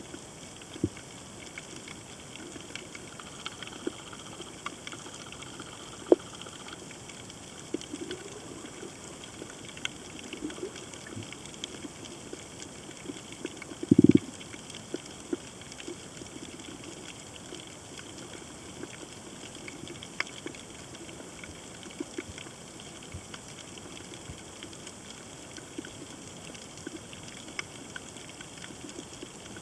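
Underwater reef ambience picked up through a camera housing: a steady hiss with scattered sharp clicks and pops. There is one louder, short low thud about fourteen seconds in.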